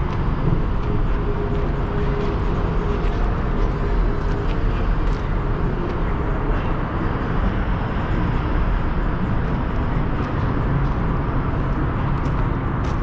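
Steady vehicle and traffic noise, an unbroken low rumble with a faint hum in the first few seconds.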